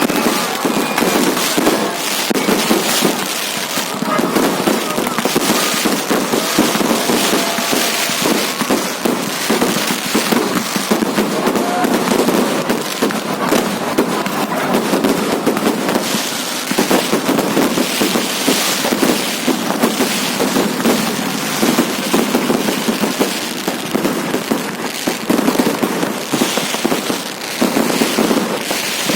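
Fireworks and firecrackers going off in a continuous, rapid string of crackling bangs, with only brief lulls.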